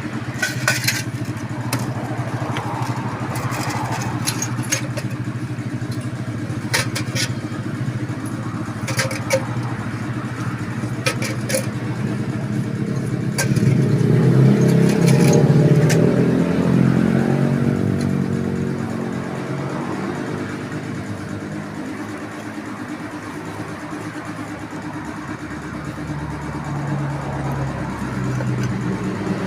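Small motorcycle engine, a Honda Supra Fit New's single-cylinder four-stroke, running steadily. About 13 seconds in it is revved up, then it settles back to a lower speed. A few sharp clicks sound over the first dozen seconds.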